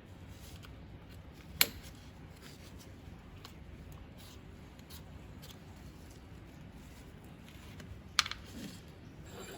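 Two sharp clicks, one about a second and a half in and one near the end, over a low steady hum.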